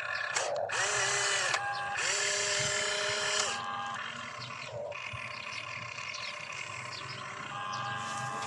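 Small electric motors of a radio-controlled construction model whining as they spin up, run and wind down in two longer runs and a shorter one, over a steady mechanical whir.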